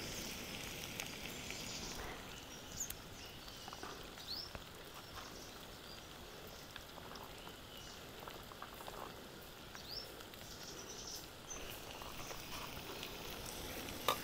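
Chopped onion and green chillies sizzling faintly in hot oil in a kadhai, a soft steady crackle. A few faint, short, high chirps sound over it.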